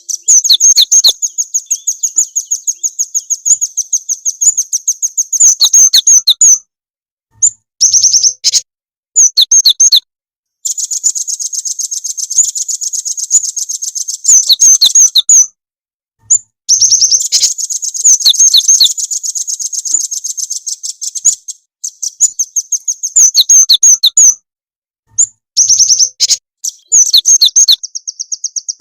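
Small songbird's rapid, high-pitched trilled song, played as a lure recording to get caged birds singing. It comes in phrases of a few seconds that cut off suddenly into brief silences, with a faint thump at some of the breaks.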